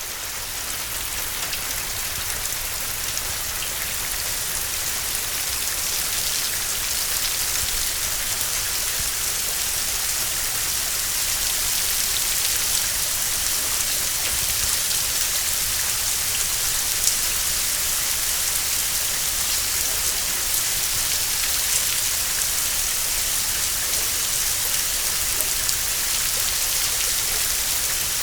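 Heavy rain pouring steadily: a dense hiss with scattered drop ticks and a low steady rumble underneath. It swells over the first ten seconds or so, then holds level.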